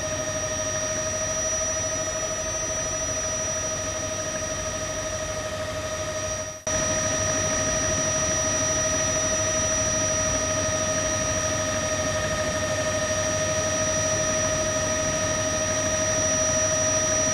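Steady machine noise: a constant whine made of several fixed tones over an even hiss. It cuts out for a moment about six and a half seconds in, then resumes slightly louder.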